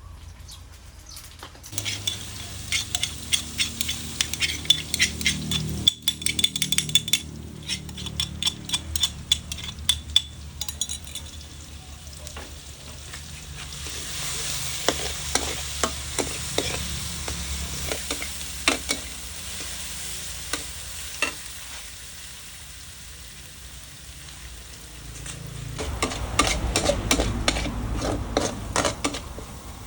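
Chicken legs frying and sizzling in a pan while a utensil stirs and scrapes against it. Rapid scraping and clicking goes on for the first ten seconds or so, then comes a steadier sizzle, and there is another spell of stirring near the end.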